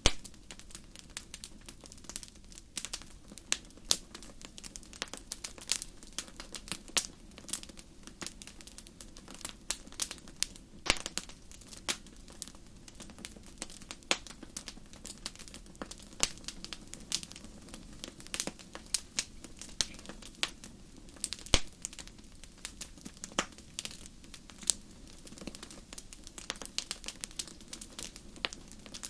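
Fire in a fireplace crackling: irregular sharp pops and snaps, several a second, over a steady low hum.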